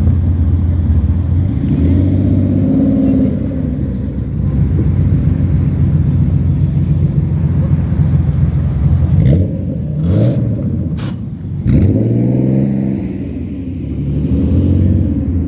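Car engine idling with a deep, even note, revved briefly several times. A few short sharp cracks come in a cluster past the middle.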